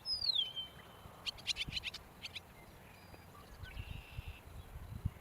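Eastern meadowlark calling: a clear whistle slurring downward at the start, then a rapid chatter of short sharp notes about a second later, with a few more notes and a faint buzzy note after. A low rumbling noise runs underneath.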